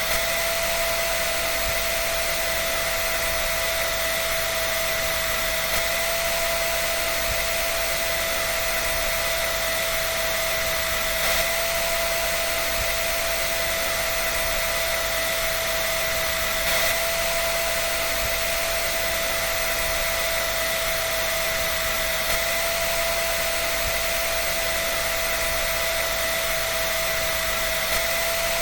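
Hair dryer running steadily: a constant rush of air with an even, unchanging whine from its motor and fan.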